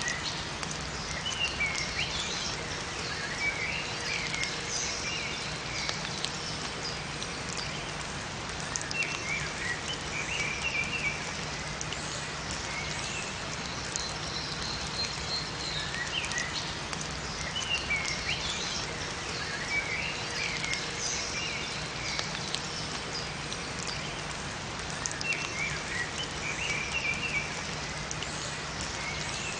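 Steady rain falling in a forest, with drops ticking throughout. Small birds chirp in short high phrases that come back every several seconds.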